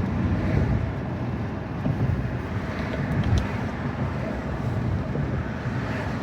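Steady road and tyre noise, a low rumble, inside the cabin of a 2023 Tesla Model Y Performance, an electric car, at driving speed.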